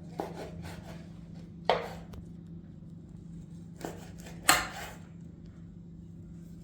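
Four short scraping knocks, the loudest about four and a half seconds in, over a steady low hum.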